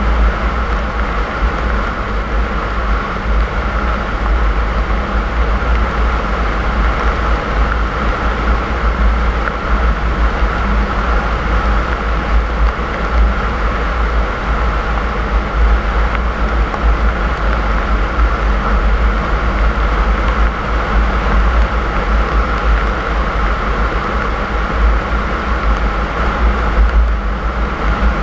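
A car driving along: a steady deep rumble of engine and tyres on the road, with a constant hiss over it.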